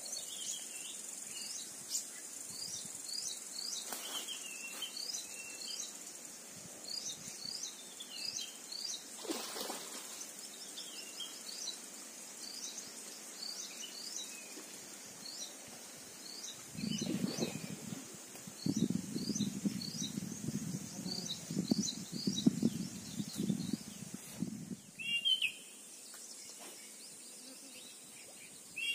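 Outdoor ambience of birds calling, a series of short repeated chirps over a steady high insect drone. For several seconds past the middle, a louder rough rattling noise comes in and then stops.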